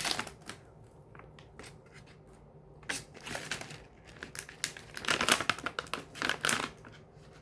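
Plastic wrapping on a pack of cigars crinkling and tearing as it is opened by hand, in a few rustling bursts, the loudest about five seconds in.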